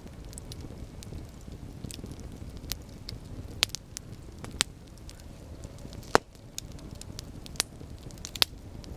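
Campfire burning: a low steady rumble of flames with scattered sharp crackles and pops from the burning wood, the loudest pop about six seconds in.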